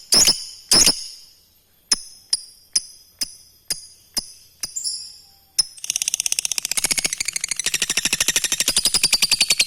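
Lovebird calling: about ten sharp, high single chirps roughly half a second apart, then from about six seconds in a long, fast chattering trill, the 'ngekek' call.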